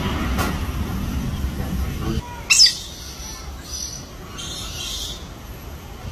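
A parrot gives one loud screech that falls sharply in pitch, then several shorter high chirps. Before it, a low rumble cuts off abruptly about two seconds in.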